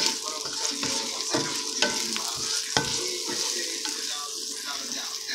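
Onions and spices sizzling in hot oil in a cast-iron pot, stirred with a wooden spatula that knocks sharply against the pot three times.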